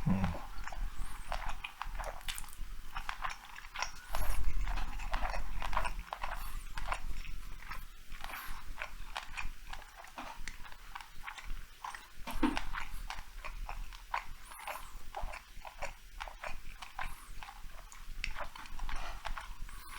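Close-miked chewing of sushi rolls: irregular wet mouth clicks and smacks, with a louder low rumble about four seconds in.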